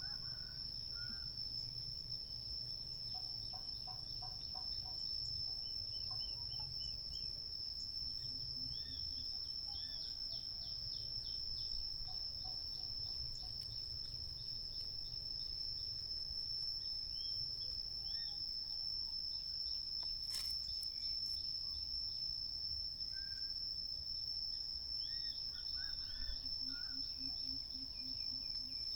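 Insects trilling in one steady high-pitched tone, with short bird chirps scattered here and there over a low rumble.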